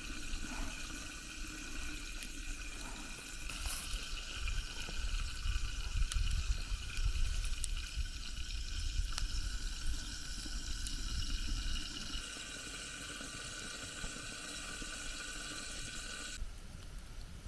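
Espatada beef skewers sizzling over campfire coals: a steady hiss with small crackles and pops.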